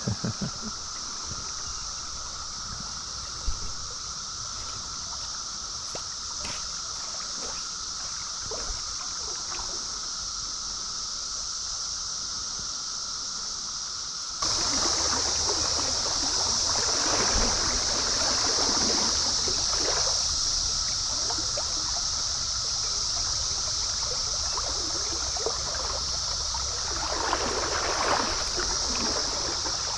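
Flowing stream water under a steady, droning chorus of Brood XIV periodical cicadas. About halfway through, the sound jumps abruptly louder, and the water is then heard closer, with irregular splashing swells.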